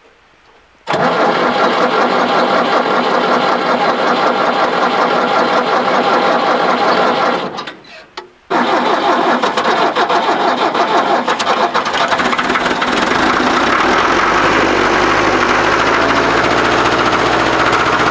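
1970s Ford diesel tractor being cold-started on its glow plugs: the starter cranks for about seven seconds and stops, then cranks again a second later. The engine catches during the second try and settles into steady running.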